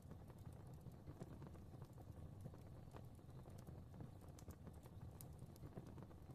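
Quiet fire crackling: irregular small snaps and pops over a soft, steady low rumble of flames.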